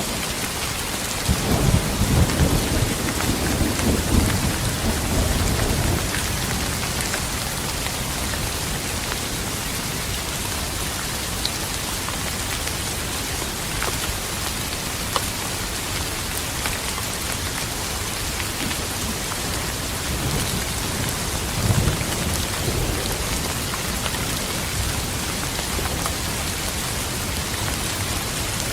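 Steady heavy rain falling on a surface, with rolling thunder rumbling low from about a second and a half in to about six seconds, and a shorter rumble near the end.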